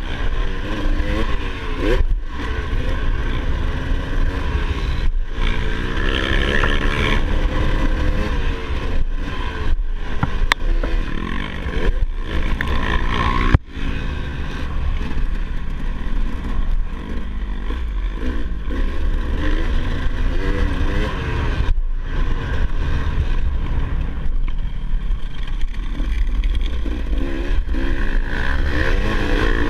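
Dirt bike engine being ridden hard, its pitch rising and falling again and again with throttle and gear changes, over a steady low rumble. There is a sharp knock about halfway through.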